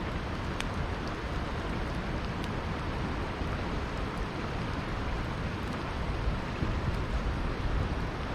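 Steady rushing of a flowing river, with a few faint crackles and pops from a wood campfire.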